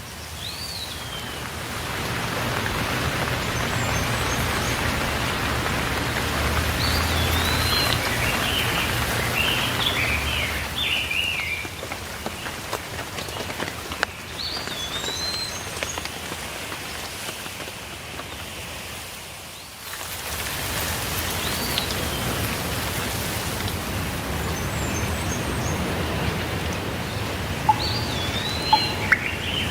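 Steady rain with birds calling over it, short rising and falling chirps and whistles coming several times. The rain grows louder about two seconds in, eases through the middle, and picks up again suddenly about two-thirds of the way through.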